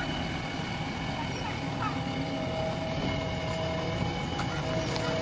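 Diesel engine of a JCB 3DX backhoe loader running steadily, a low even rumble with faint steady tones over it.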